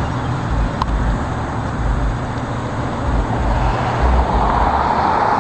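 Road traffic noise, growing louder near the end as a vehicle comes closer.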